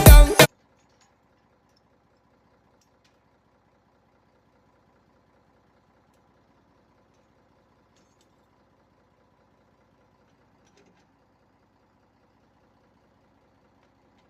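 Background music cuts off about half a second in, leaving near silence with a faint, steady tractor engine idling.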